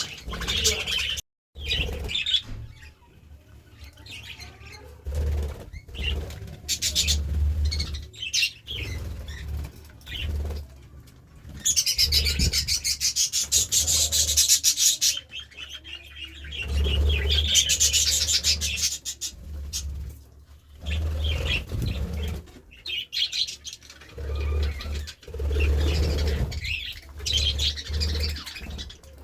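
Budgerigars chirping, with bursts of wing flapping coming and going.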